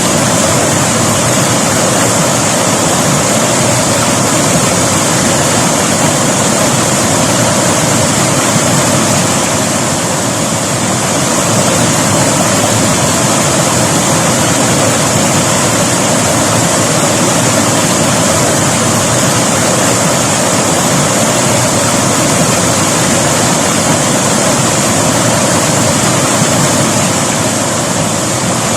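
River water flowing and rushing over rocks, a loud steady rush with no break.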